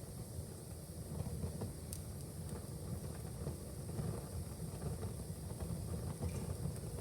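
Wood fire burning in a fireplace: a steady low rumble of the flames with a sharp crackle about two seconds in and a few fainter pops.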